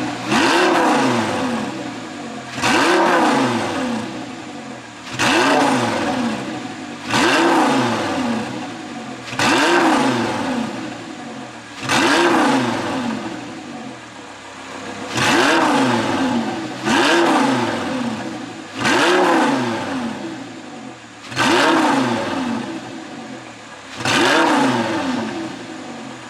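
2015 Audi R8's 5.2-litre FSI V10 revved in sharp blips about a dozen times, every two to three seconds. Each rev is followed by falling revs with popping and crackling from the exhaust on overrun, from an ECU tune set up for pops.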